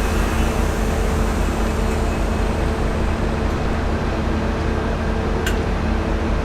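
V/Line N class diesel-electric locomotive engine running steadily with a deep, even hum, and a single sharp click about five and a half seconds in.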